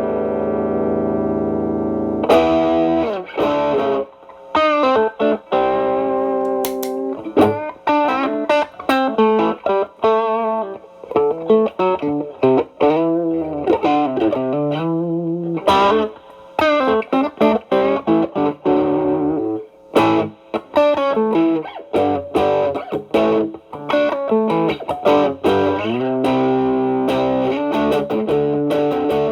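Overdriven electric guitar: a Stratocaster through a Xotic BB Plus preamp with channel A stacked into channel B as a boost, into a Marshall Valvestate amp. A held chord rings for about two seconds, then fast single-note lead lines with string bends, and held chords again near the end.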